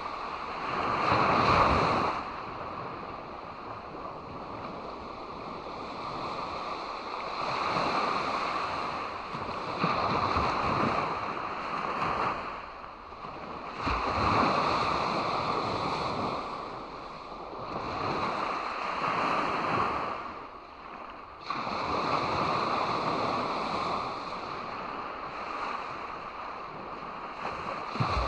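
Ocean waves washing onto a beach, swelling and easing every few seconds, with a short break in the wash just before the last third.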